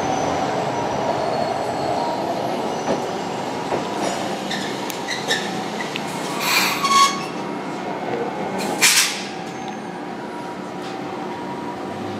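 Toden Arakawa Line 8800-series tram running at low speed, a steady rumble with a few light clicks. Two short, loud, high-pitched bursts come about halfway through and again about two seconds later.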